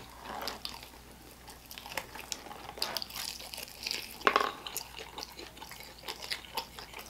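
Close-up wet chewing and mouth sounds of a person eating a fried chicken wing: small moist clicks and smacks, with one louder moment about four seconds in.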